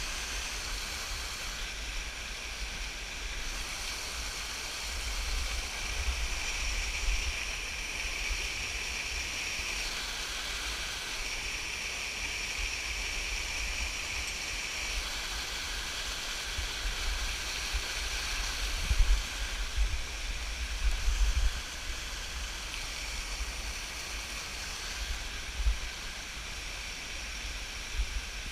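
Waterfall rushing steadily, an even hiss of falling water. Low bumps and thuds break through briefly around two-thirds of the way in.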